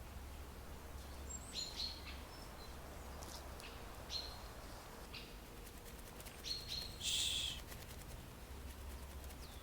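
Small birds chirping in woodland: short, high, separate chirps every second or so, with a brief harsh burst about seven seconds in. A steady low hum of background noise runs underneath.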